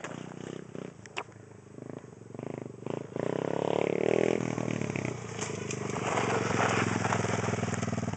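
Demon X 110cc pit bike's single-cylinder four-stroke engine ticking over at a low idle, then revved up about three seconds in and held at higher revs.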